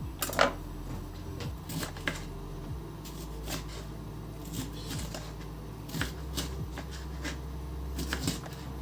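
Light clicks and knocks of household objects being handled, at irregular spacing, the loudest about half a second in and a few close together near the end, over a steady low hum.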